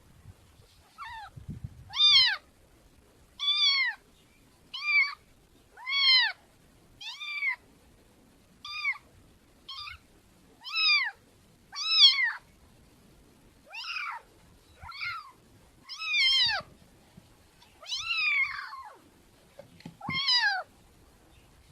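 Domestic cat meowing over and over: about fifteen short meows, each rising and then falling in pitch, roughly one a second with a few longer pauses.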